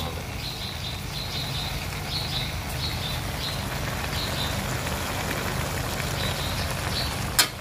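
Prawn, squid and pork stir-fry sizzling and crackling in a large aluminium wok, over a steady low rumble. A single sharp knock comes near the end.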